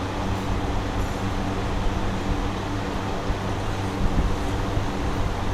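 Steady low machine hum, a constant drone that does not change.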